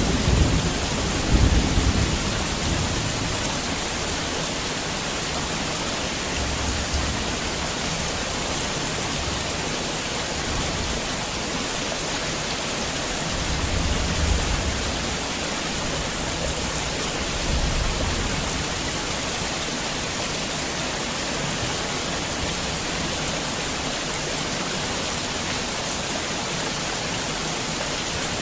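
Heavy rain falling steadily, with low rolls of distant thunder: the strongest about a second in, fainter ones later.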